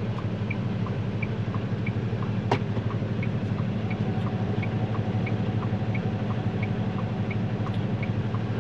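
Truck engine running steadily, heard from inside the cab, with the turn signal ticking in an even tick-tock, about three clicks a second. A single sharp click about two and a half seconds in.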